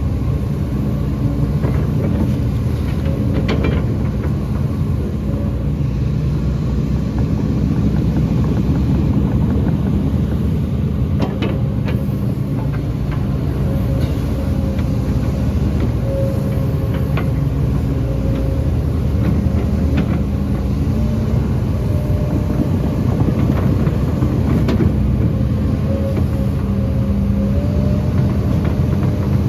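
Heavy diesel excavator engine running steadily under work, with a few short knocks scattered through.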